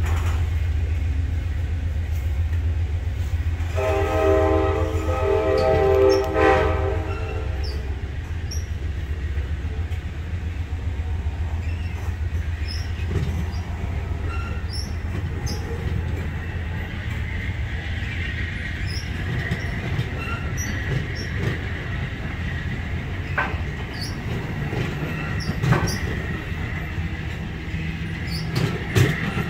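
Freight train of waste-container flatcars rolling slowly, with a steady low rumble. A multi-note train horn blows for about three and a half seconds, starting about four seconds in. Later a faint steady high squeal and a few sharp metallic clanks are heard while a passenger train passes on the adjacent track.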